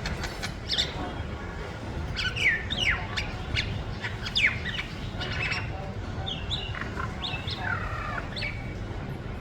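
Birds chirping and calling in short, quick downward-sliding notes, several in a row, over a steady low background rumble.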